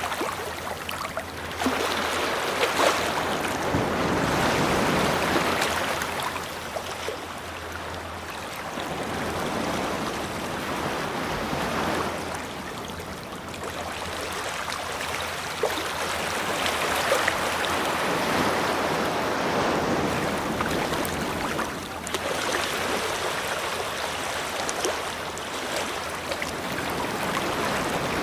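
Sea waves breaking and washing up the shore, the surf swelling and falling away every several seconds.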